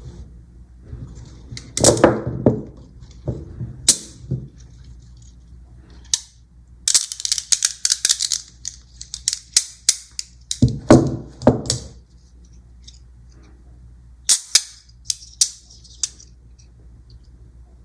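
Small magnetic balls clicking and snapping together: scattered sharp clicks, a fast run of clicks for a few seconds in the middle, then a few single clicks near the end.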